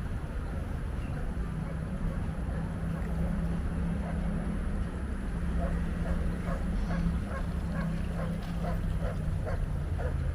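City street traffic running with a steady low engine hum. From about halfway, a quick run of short chirp-like calls repeats a few times a second over it.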